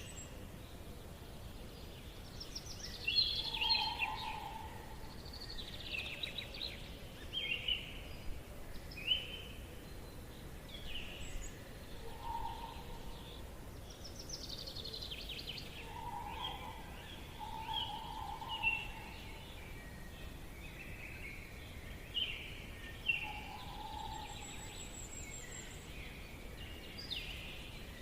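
Forest birdsong: several birds giving short, high chirps and trills, with a lower call repeating every few seconds, over a steady faint hiss of background ambience.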